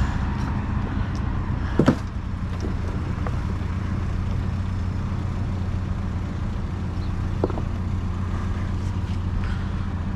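A vehicle engine idling steadily, with one sharp knock about two seconds in and a lighter click later on.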